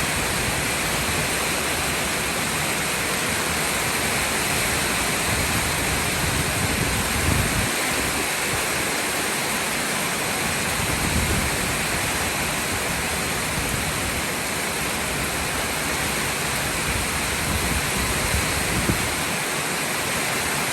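Heavy rain falling in a steady, dense hiss, with a few brief low rumbles a few seconds apart.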